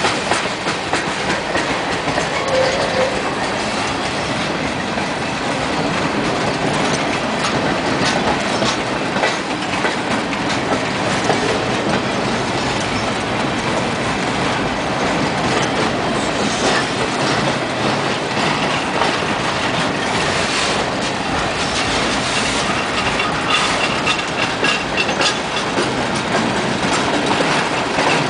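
Freight train boxcars rolling past close by: a steady rumble of steel wheels on the rails, with a continual clickety-clack as the wheels cross the rail joints.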